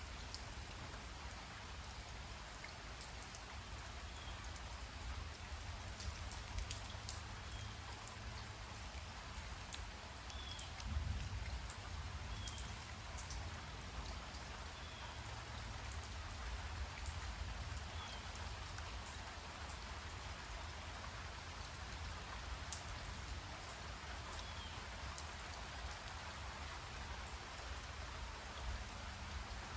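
Light rain falling, with single raindrops ticking close by over a steady hiss.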